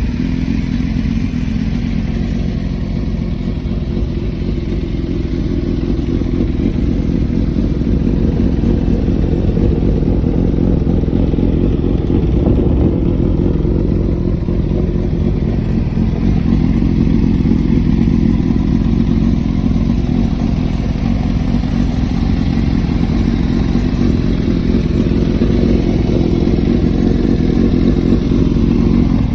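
Honda CBX550F's air-cooled inline-four engine running steadily at idle, a little louder from about a quarter of the way in. The engine shows little abnormal noise, in the seller's view.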